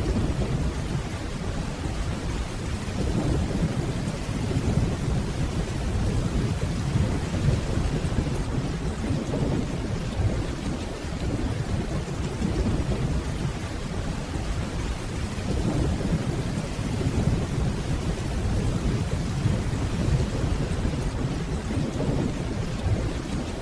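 Steady rainfall with a continuous low, rolling rumble of distant thunder underneath, swelling and easing slightly but never breaking into a sharp crack.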